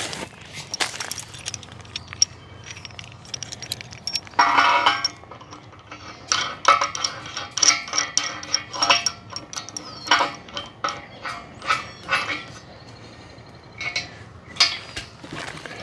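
Steel parts and hardware of a tractor pallet fork set clinking and clanging as they are handled and unpacked, in irregular knocks, with a louder ringing clang about four and a half seconds in.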